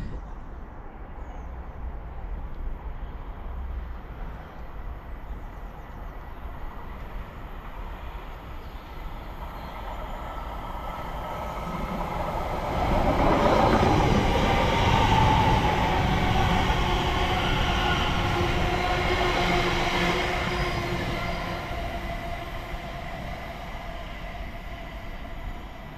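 A train passing on the main line: a low rumble builds from about halfway through, is loudest for several seconds with a faint steady whine over it, then fades away.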